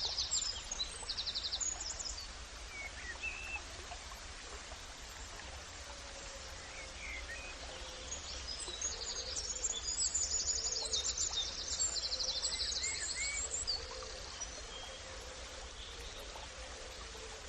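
Birds singing rapid trills and short chirps over a steady background hiss of outdoor ambience. The trills come briefly at the start and again in a longer spell from about nine to thirteen seconds in.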